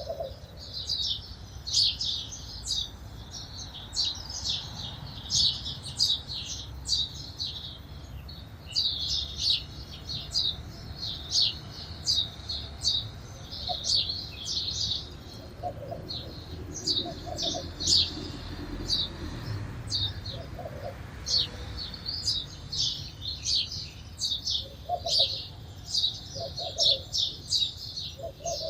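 A flock of sparrows chirping: a dense, busy stream of short high chirps with brief lulls, and a few short low calls in the second half.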